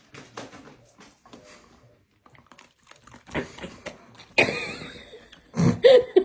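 A dog: light clicking and tapping at first, then louder sounds with a bending pitch in the second half, the loudest near the end.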